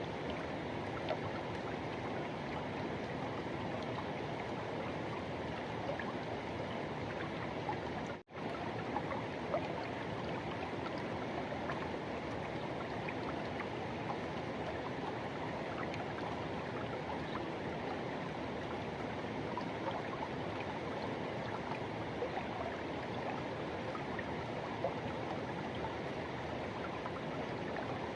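Forest river water rushing steadily. The sound drops out for a split second about eight seconds in.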